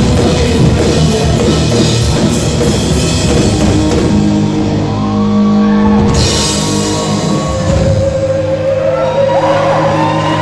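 Rock band playing loud, with drum kit and distorted electric guitar. About four seconds in, the cymbals drop out and held chords ring on, and bending guitar notes come in near the end.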